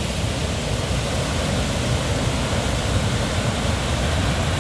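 Düden Waterfall at Lara, its water falling over the cliff into the sea: a steady, even rush of falling water.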